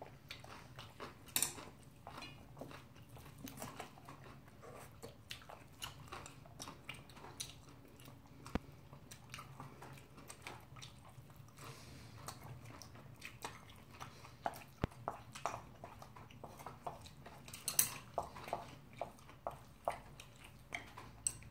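Quiet, close-up eating sounds of bibimbap heavy with vegetables being chewed and eaten with chopsticks and spoons: many small irregular clicks and smacks, with a couple of sharper clicks about a second in and near the end.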